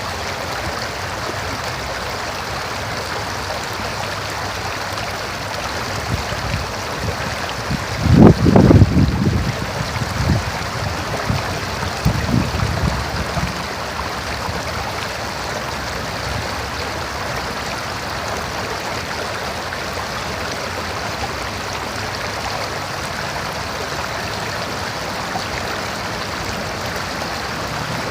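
River water flowing steadily with an even rushing noise. About eight seconds in, a loud, irregular low-pitched disturbance lasts a couple of seconds, and a weaker one follows around twelve seconds.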